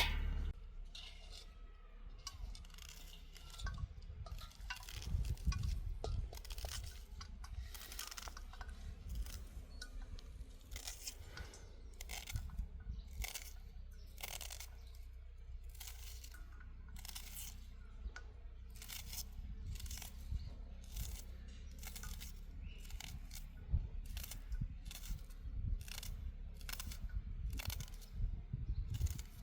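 A long run of crisp crunching strokes, about one and a half a second and growing more regular in the second half, over a low rumble.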